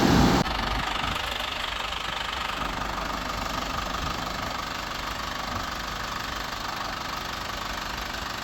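An engine running steadily at idle, after a louder sound cuts off about half a second in.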